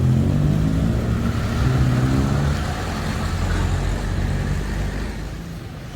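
A motor vehicle's engine running, strongest in the first two or three seconds and then fading away.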